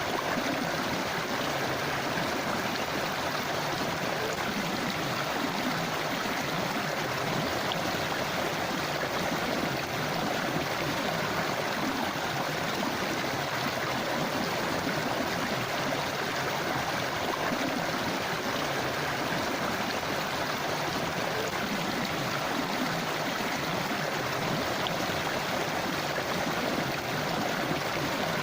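River water rushing and gurgling over rocks, a steady unbroken flow.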